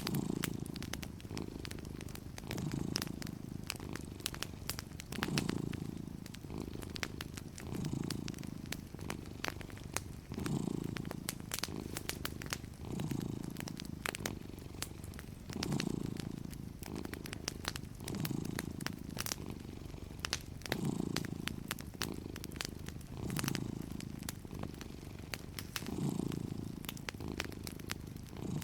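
Domestic cat purring steadily, the purr swelling about every two and a half seconds with each breath, over a wood fire crackling in small sharp pops.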